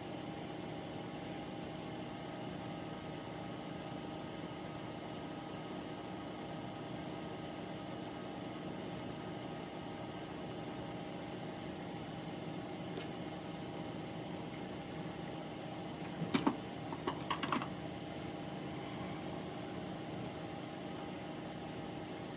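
Steady machine hum made of several steady tones, with a few light clicks and taps about sixteen to seventeen seconds in.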